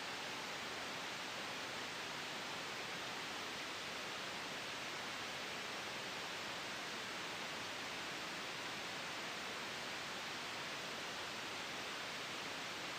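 Steady white noise for sleep and noise masking: an even, unchanging hiss, brightest in the upper range, with no swells or breaks.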